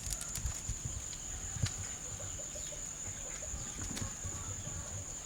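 Chickens clucking softly, with a steady high-pitched whine underneath and a couple of sharp knocks, the strongest about a second and a half in and another near four seconds.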